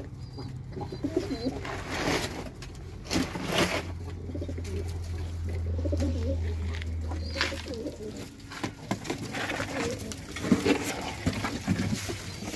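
Domestic pigeons cooing repeatedly, over scattered scrapes and knocks. A low steady hum sounds for a few seconds in the middle.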